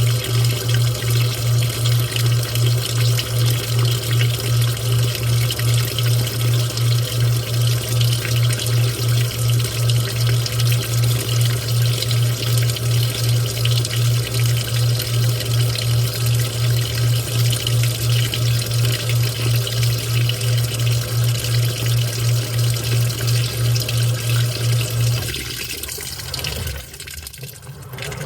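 Washing machine moving water, with a loud low motor or valve hum that pulses about three times a second. The hum cuts off near the end, leaving water trickling and sloshing.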